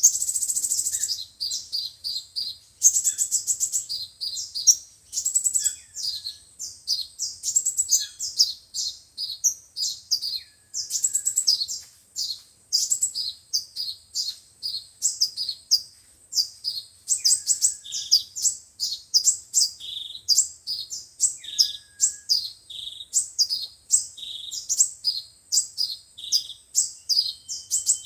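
Sunbird song: a dense run of rapid, high-pitched chirps and trills, broken every few seconds by a lower note that drops, then holds. It is a recording meant for playing through a loudspeaker to lure sunbirds.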